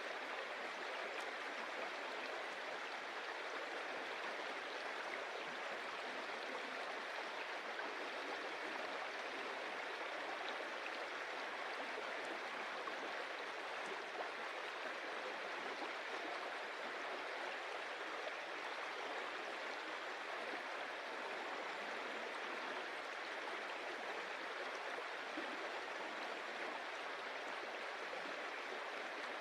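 Stream water running and splashing over stones, a steady, even rush.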